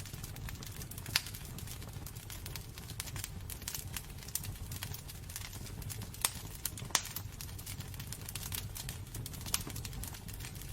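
Wood fire crackling in a fireplace: a steady low rumble of burning with frequent irregular pops and snaps, a few of them sharper and louder.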